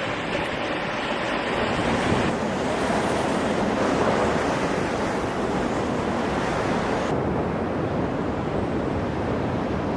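Wind buffeting the microphone and rough sea rushing along the hull of a sailing yacht beating upwind, a steady dense rush of noise.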